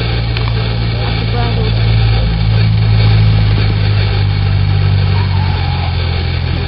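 Aircraft engine running steadily with a low, even hum that swells a little in the middle.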